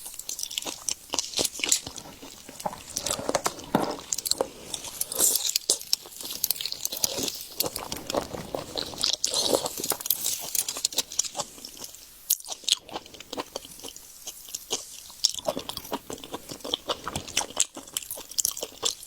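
Close-miked ASMR eating of seafood: steady wet chewing with a rapid run of sharp crunches and crackles, pausing briefly about twelve seconds in.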